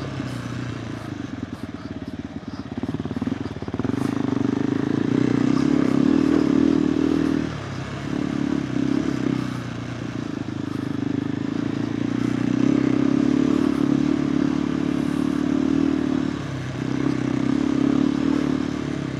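KTM 390 Adventure R single-cylinder engine running through a Norifumi Whoops slip-on exhaust, pulling under throttle up a trail hill. It gets louder about four seconds in and eases off briefly twice.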